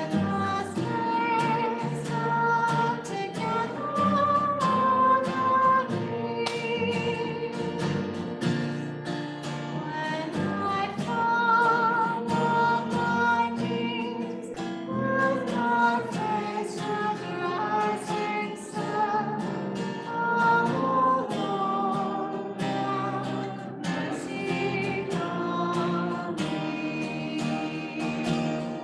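Music: an acoustic guitar being played, with a singer's voice over it.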